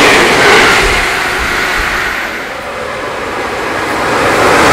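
Electric train passing through a station at speed, a loud rushing clatter that fades as the last cars go by. Near the end the rush of another passing train builds back up.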